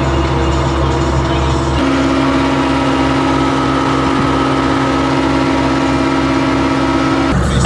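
Massey Ferguson 399 tractor engine running steadily, with background music of held notes that change about two seconds in and again near the end.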